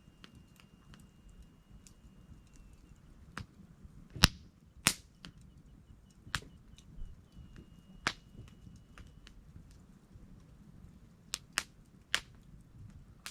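Wood campfire crackling: irregular sharp pops and snaps, the loudest two close together about four seconds in, over a low steady noise. A faint thin high whistle sounds twice.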